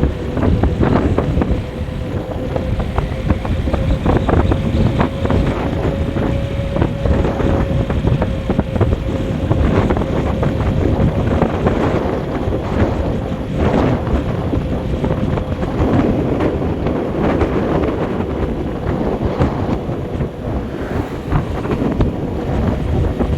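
A vehicle driving along a road: steady engine and road rumble with a faint constant hum, and wind buffeting the microphone.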